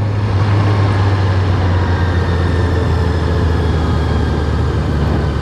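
Honda CBR650R's inline-four engine running at a steady cruise under the rider, with wind rush over the helmet microphone.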